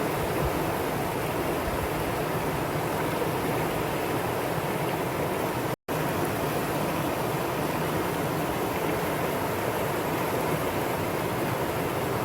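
Valley stream water rushing over rocks in a steady, even flow. The sound cuts out completely for a split second about halfway through, then resumes unchanged.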